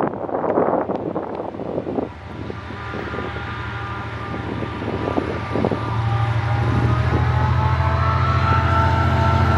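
Diesel-electric freight locomotive approaching: a steady low engine drone with a higher steady whine, growing louder. Wind buffets the microphone for about the first two seconds.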